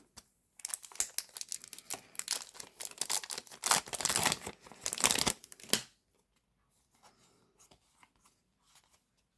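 A foil Yu-Gi-Oh! booster pack being torn open and crinkled for about five seconds, then a few faint clicks.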